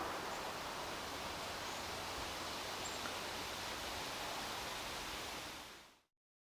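Steady, even hiss of background noise, perhaps outdoor ambience, with no distinct events. It fades out about six seconds in.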